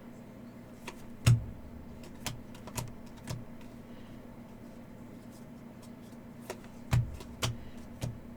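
Scattered light clicks and taps of hockey cards being handled and set down on a table, with a louder knock about a second in and another near the end, over a faint steady hum.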